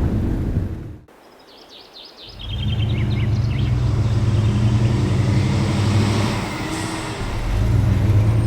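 A rumbling storm sound cuts off about a second in. Birds chirp briefly, then a vehicle engine runs with a steady low hum.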